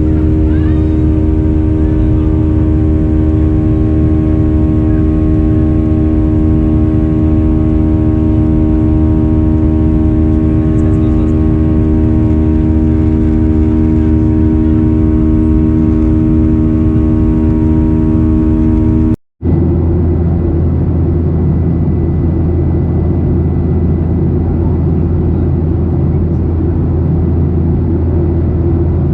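Steady cabin drone of a Boeing 737-800's CFM56 jet engines, a hum with several held tones over a low rumble. About two-thirds of the way through it cuts out for an instant and comes back as a lower, rougher drone.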